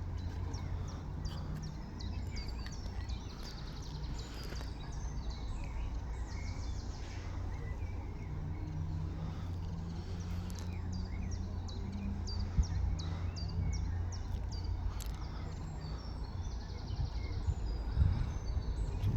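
Outdoor ambience: a steady low rumble of wind on the microphone, with many short high chirps of birds or insects and a faint low hum that wavers through the middle.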